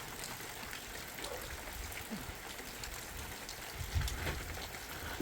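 Steady rain falling, with scattered drop ticks and a brief low thump about four seconds in.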